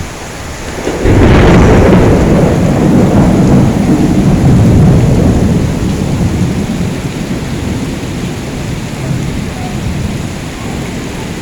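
A sudden loud thunderclap about a second in over steady heavy rain, rumbling on for several seconds and slowly dying away.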